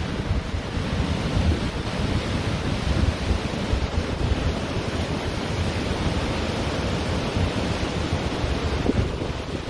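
Ocean surf washing steadily onto a beach, with wind buffeting the microphone in a low, fluttering rumble.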